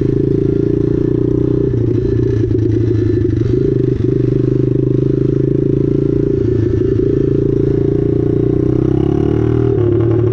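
Small mini-bike engine running at steady revs, its pitch dipping slightly about nine seconds in.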